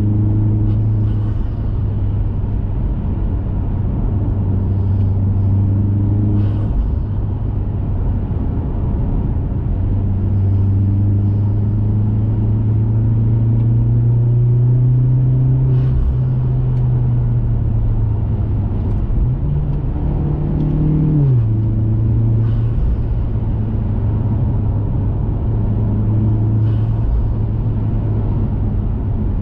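2021 Mazda 3 Turbo's turbocharged four-cylinder through a CorkSport 80 mm cat-back exhaust, cruising with a steady low drone over tyre noise. The note rises gently and eases off again mid-way, then about two-thirds in climbs briefly and drops suddenly, as at a gear change.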